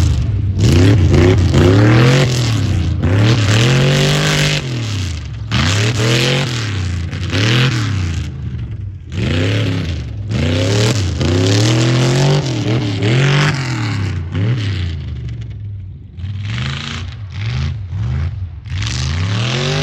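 Modified tuff-truck engine revving hard up and down, over and over about once a second, with rough clattering noise on top; it eases off briefly twice.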